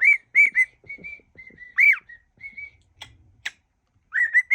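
Cockatiel whistling a tune: a string of short, clear notes near one pitch, some swooping up and down. The notes break off about three seconds in, with two sharp clicks, and resume near the end.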